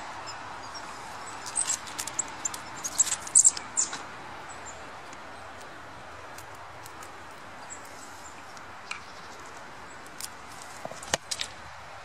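Small birds feeding at a hand, giving short, very high chirps and ticks in two flurries, the first lasting a couple of seconds and the second near the end, with one sharp click among them, over a steady hiss of open air.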